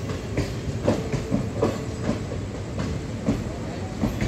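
Passenger train coaches running past, the wheels clacking over rail joints several times a second in an uneven rhythm over a steady rumble.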